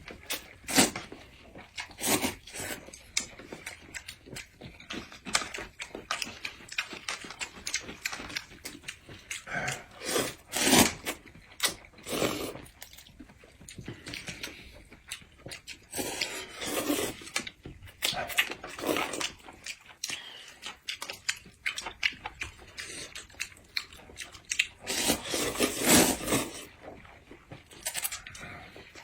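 A person eating noisily: irregular chewing, smacking and slurping, close to the microphone.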